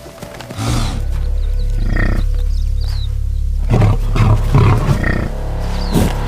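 A big cat roaring, with loud low calls about halfway through and again near the end, over a steady low drone and music.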